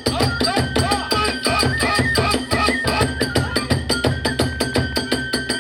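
Kagura hayashi music: drums and small hand cymbals beating a fast, even rhythm, with a flute holding long notes that step in pitch over it.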